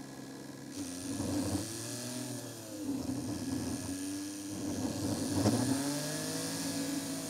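Seat Ibiza's engine and road noise picked up by a camera mounted low on the car, played back sped up threefold. The engine pitch rises and falls several times as the car speeds up and slows through the streets.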